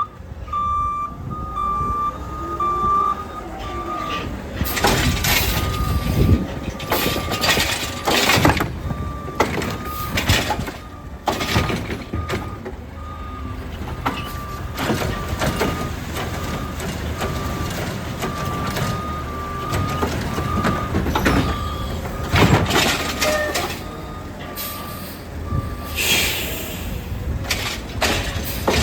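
Heil Rapid Rail automated side-loader garbage truck with its backup alarm beeping steadily over the running engine, among repeated clanks and crashes of bins and trash. The beeping stops near the end, and a hiss of air follows.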